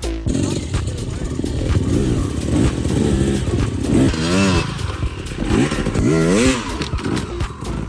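Dirt bike engine revving up and down several times, its pitch climbing and dropping in repeated swoops.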